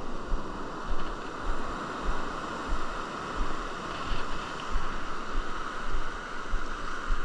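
Wind buffeting the microphone with irregular low rumbles over a steady hiss of ocean surf.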